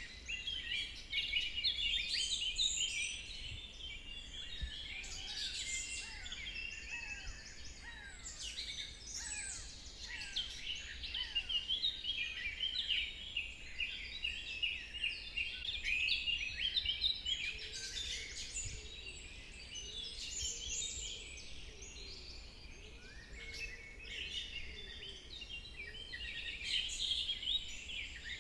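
A chorus of many forest birds singing and chirping at once, dense overlapping high chirps and trills throughout, with a lower warbling call joining in about two-thirds of the way through.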